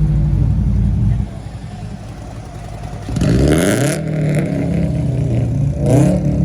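Car engine running with a heavy rumble that drops back about a second in, then revved up hard with a rising note about three seconds in and blipped again near the end.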